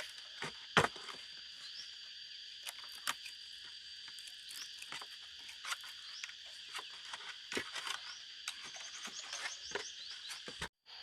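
Steady high-pitched insect chorus of crickets or cicadas, with scattered sharp clicks, knocks and rustles of something being handled close by. The sound cuts out briefly near the end.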